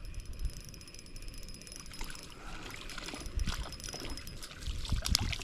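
Knocks and water sounds around a kayak as a hooked fish is reeled in and brought aboard, with a cluster of sharper splashes and thumps near the end.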